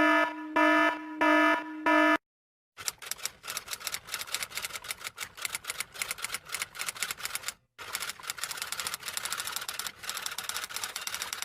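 Four short buzzer beeps, then rapid, irregular typing clicks like typewriter keys, broken once by a short pause.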